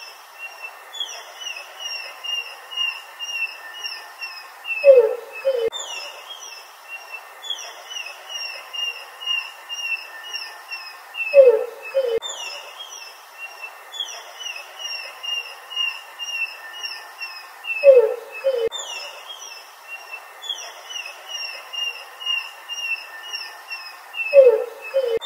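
Birdsong: a loud, low two-note call about every six and a half seconds, with strings of quick, high chirps between the calls.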